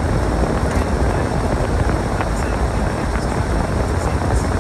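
Storm wind buffeting the microphone: a steady, deep rush of noise with no pauses.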